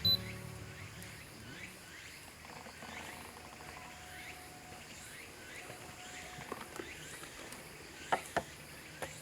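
Forest ambience: a faint chirp repeating about twice a second over a low hiss, with a short sharp click at the start and three sharp knocks near the end.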